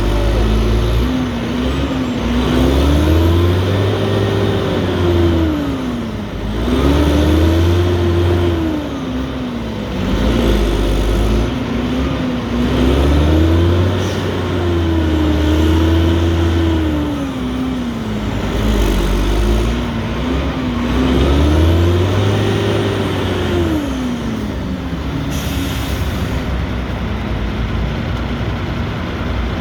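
Renault Kerax 380 DXi dump truck's diesel engine revving up and dropping back about four times, each rise lasting a few seconds, as the bogged-down truck strains under load, then settling lower. A brief hiss of air near the end.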